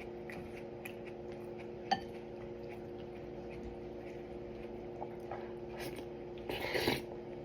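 Tableware being handled during a meal: scattered light clicks, one sharp clink about two seconds in, and a brief louder rush of noise near the end, over a steady electrical hum.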